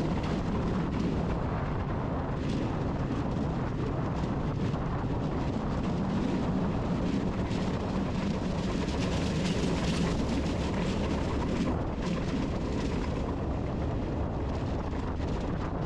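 Steady low rumbling noise with no clear pattern or tone, strongest in the bass, like wind buffeting a microphone.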